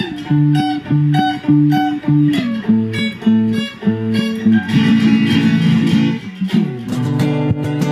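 Solo fingerstyle guitar playing: plucked melody notes over a bass line, with a denser strummed passage about halfway through before single notes return.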